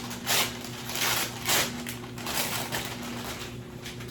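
Several short, irregular crinkling rustles of something being handled in the kitchen, over a steady low hum.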